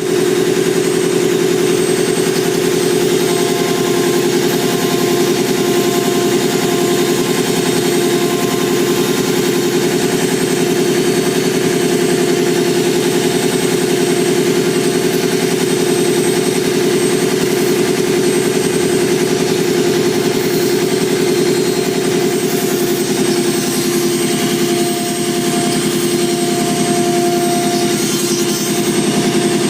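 CNC router running steadily, its spindle carving MDF, with a continuous machine drone.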